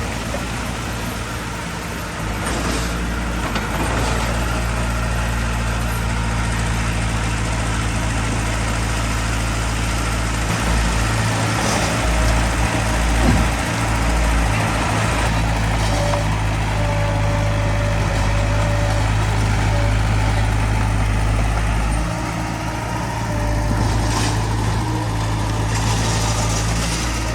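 Heavy diesel engine of earthmoving machinery running steadily, its low hum changing a few times as the load shifts, with a few brief knocks.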